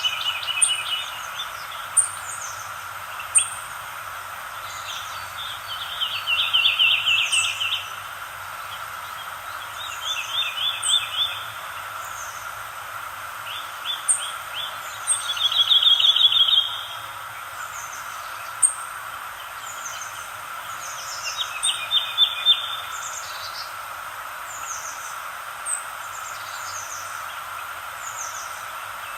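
Songbirds singing: a rapid trill of about a second and a half repeats every few seconds, with short high chirps scattered between the trills, over a steady background hiss.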